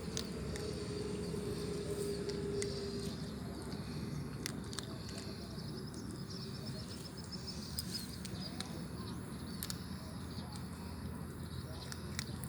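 Outdoor ambience: a steady low rumble, with a faint steady hum that fades over the first few seconds, a rapid high chirping trill lasting about two seconds in the middle, and a few scattered clicks.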